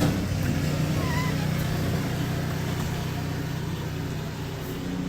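Steady low mechanical hum, like a motor or fan running, with a brief faint squeak about a second in.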